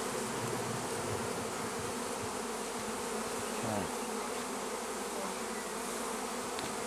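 Many honeybees buzzing around an open hive, a dense steady hum. About three and a half seconds in, a buzz falls in pitch.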